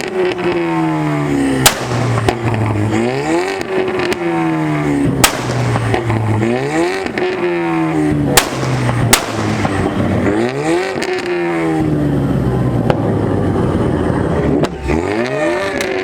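A Ford Mustang's engine revved hard again and again, each rev rising and falling in pitch, with sharp exhaust backfire cracks between the revs: the pops that come with flames shooting from the exhaust.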